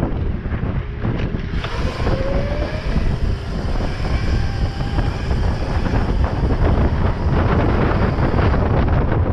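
Wind buffeting the microphone while riding an electric dirt bike at speed, with steady road rumble and a faint rising whine about two seconds in.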